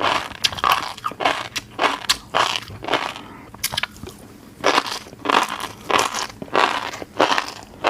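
Close-up chewing of fish roe: rapid wet crunches and pops as the beads burst in the mouth, with a short lull in the middle.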